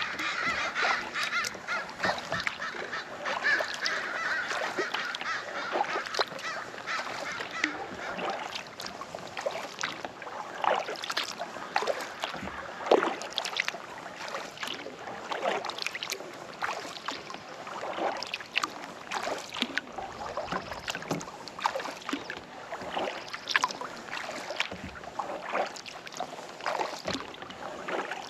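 A flock of waterfowl calls over the water, with a chorus of honking strongest in the first several seconds. Kayak paddle strokes splash and drip throughout.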